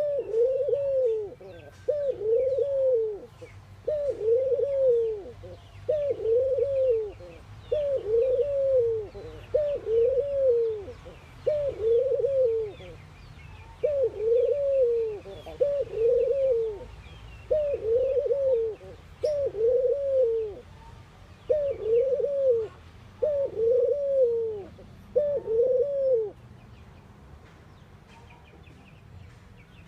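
Ringneck dove cooing over and over, about one arching coo a second with a short break partway through, then falling silent near the end. Small birds chirp faintly behind it.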